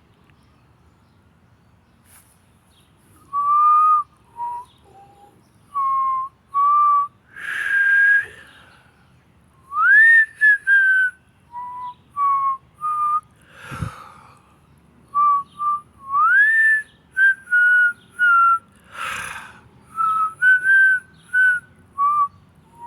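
A person whistling a tune by lips, note by note in short phrases, some notes sliding up, with audible breaths taken between phrases. The whistling begins about three seconds in.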